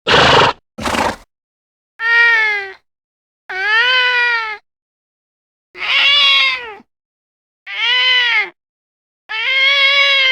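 Domestic cat meowing: five separate meows, each about a second long, rising then falling in pitch, with short silences between. At the very start come two short, harsh noisy bursts.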